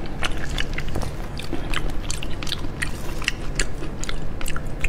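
Close-miked chewing of fatty steamed fish: a run of irregular mouth clicks, several a second.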